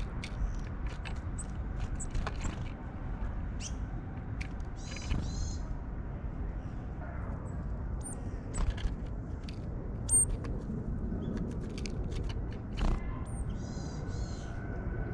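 Small tits at a seed feeder: repeated sharp taps and clicks as they work at sunflower seeds, with a few thin high chirps and two short buzzy calls, one about five seconds in and one near the end. A steady low rumble runs underneath.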